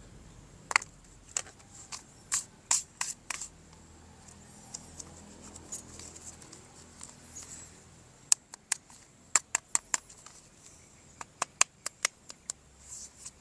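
Plastic toy parts and packaging being handled: scattered sharp clicks and taps in quick runs, with faint rustling between them.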